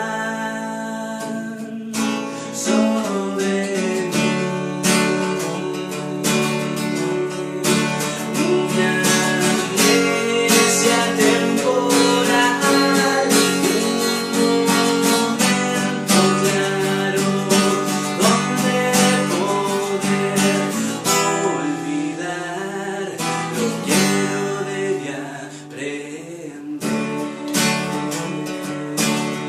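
Acoustic guitar played in a continuous instrumental passage, strummed and picked, with no singing.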